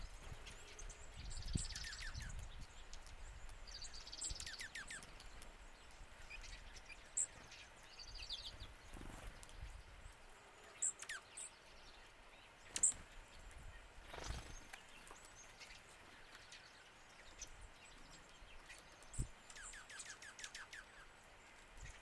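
Songbirds calling: a few rapid trills of quickly repeated notes and scattered short, high chips.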